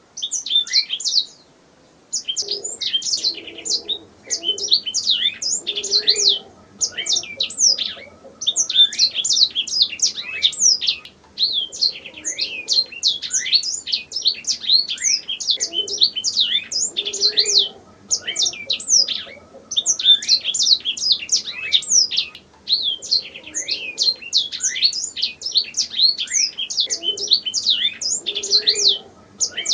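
Domestic canary singing: long, high-pitched phrases of rapid chirps and trills, broken by short pauses every few seconds.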